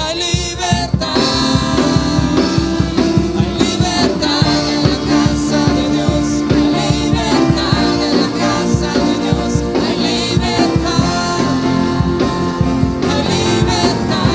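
Live worship band music with a steady drum beat, guitar and keyboard, and singing.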